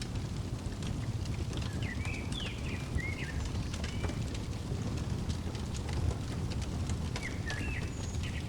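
Wood fire crackling, with scattered sharp pops over a steady low rumble. A small songbird chirps in quick, bending notes, in a short run about two seconds in and again near the end.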